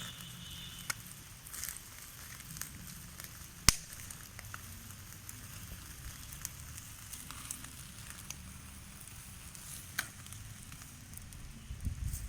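Open fire crackling under chicken being roasted, with scattered sharp pops, the loudest a little under four seconds in.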